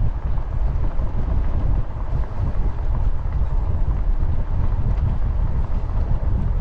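Wind buffeting the microphone of a camera riding along on a moving bicycle, a steady low rumble with no breaks.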